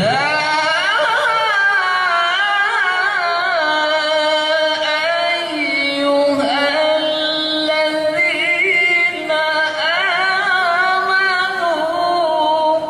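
A qari's voice reciting the Qur'an in melodic tilawah style, holding long ornamented melismatic phrases with a brief break about nine seconds in.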